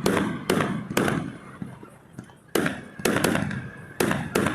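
Fireworks exploding: a quick run of three sharp bangs with echoing tails, a pause of about a second and a half, then another run of four bangs.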